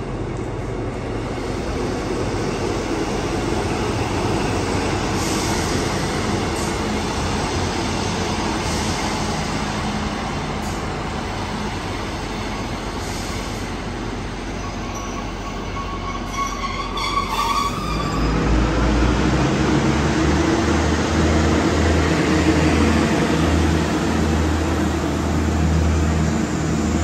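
Diesel train running through the station, growing louder. About two-thirds of the way through there is a couple of seconds of high-pitched wheel squeal, and then a deeper, heavier engine throb takes over.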